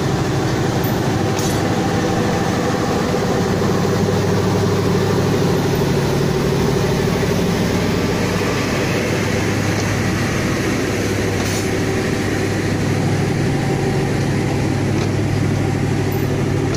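Kaligung passenger train's coaches rolling past in reverse: a steady rumble of wheels on the rails over a constant low engine hum, with a few faint knocks.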